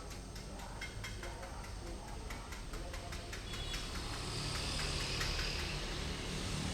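A low, steady rumble like a passing vehicle grows louder over the last few seconds, with quick light clicks or ticks running through most of it.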